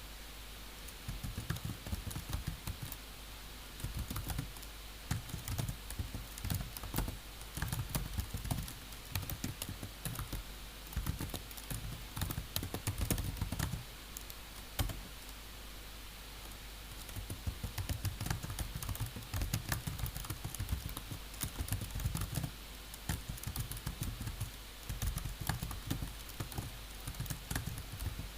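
Typing on a computer keyboard, rapid runs of key clicks in bursts with brief pauses between them.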